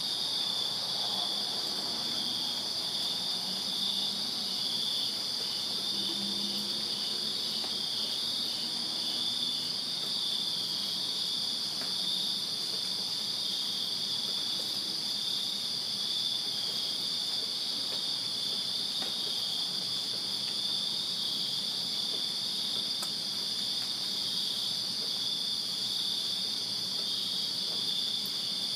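A chorus of crickets chirping without pause, a steady high trill with an evenly pulsing chirp layered over it.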